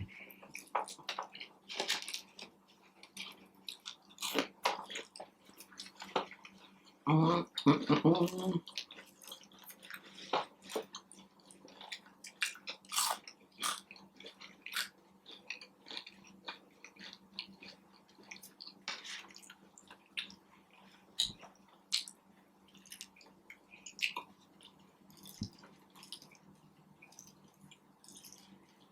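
Close-up mouth sounds of someone chewing and biting into Burger King fast food, with wet smacks and crunchy crackles coming irregularly, several a second. About seven seconds in comes a louder pitched, wavering sound lasting about a second and a half.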